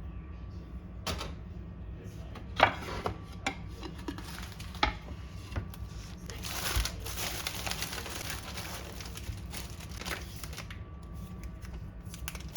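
Kitchen work sounds: a string of sharp clicks and knocks, one much louder than the rest, then a hissing rustle lasting about four seconds that ends in a knock, over a steady low hum.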